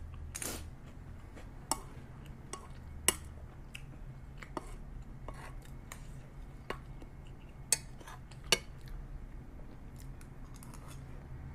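Eating sounds: a spoon clinking against a plate about half a dozen separate times, with chewing, over a low steady hum.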